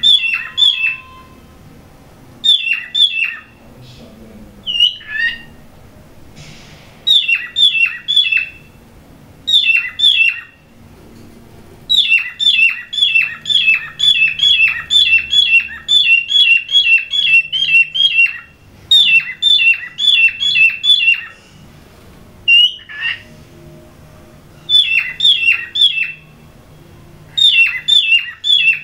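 Cockatiels mating, one calling in rapid runs of short, sharp, downward-sliding squawks, about four to five notes a second. The runs range from two or three notes to a long burst lasting several seconds, with brief pauses between them.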